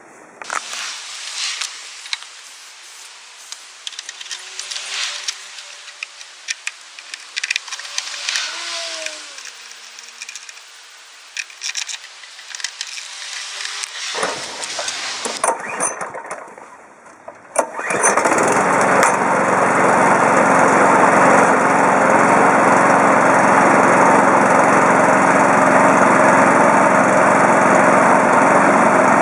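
A self-propelled walk-behind lawn mower's petrol engine starts a little over halfway through and then runs steadily and loudly. Before it starts there are scattered knocks and rattles.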